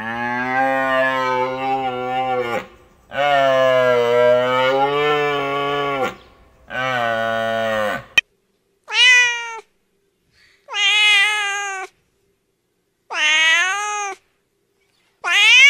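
Domestic cat meowing. First come three long, drawn-out, lower-pitched meows, then a sharp click. After it come four shorter, higher meows, each rising and falling, about two seconds apart.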